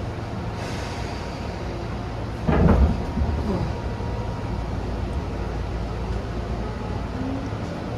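Inside a Tobu 10000 series commuter train car: a steady low rumble, with one loud clunk lasting about half a second, about two and a half seconds in.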